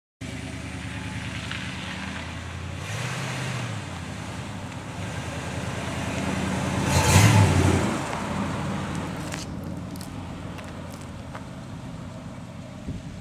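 1968 Oldsmobile 4-4-2's Rocket 400 V8 running through its dual exhaust, with a low note. It swells to its loudest about seven seconds in and then fades.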